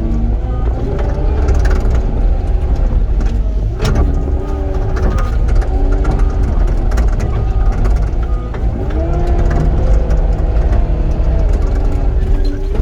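Cat 259D compact track loader's diesel engine running under load, with a whine that shifts up and down in pitch as the machine works. There is a sharp knock about four seconds in.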